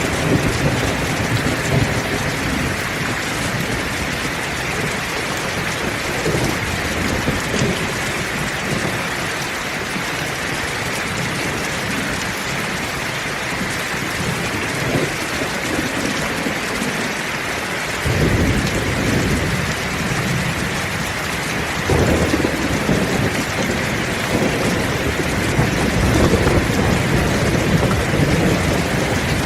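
Heavy rain pouring steadily, with rolling thunder. Low thunder rumbles die down early on, then thunder breaks in suddenly twice in the second half and keeps rumbling toward the end.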